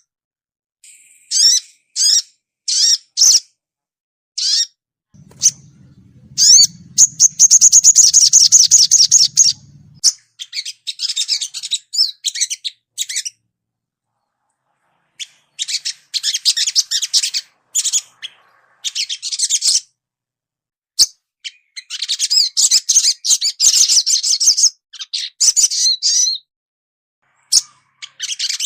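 Sogon songbird calling in bursts: short high chirps, then long rapid chattering trills, with clean silent gaps between bursts.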